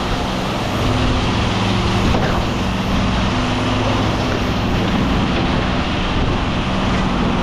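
A large engine running steadily, a constant hum with a dense noise over it and no change in pitch.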